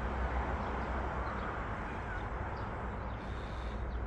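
Steady outdoor background noise, with a few faint short high chirps.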